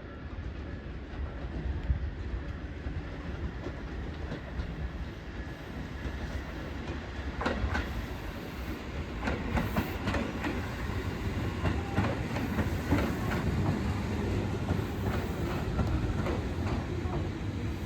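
Tobu 10030 series electric train pulling into the station: a low rumble that grows louder, with wheels clacking over rail joints from about halfway through.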